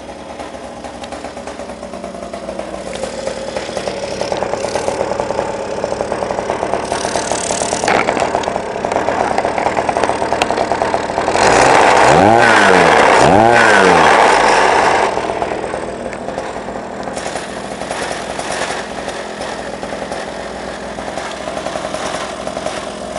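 X7 pocket bike's small 49cc two-stroke engine running steadily. About halfway through it is revved up and back down twice over a few seconds, much louder, then settles back to a steady run.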